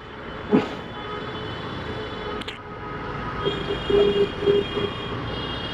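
Steady road and traffic noise heard from a moving motorcycle, slowly growing louder, with a short pitched tone sounding several times in a row about three and a half to five seconds in.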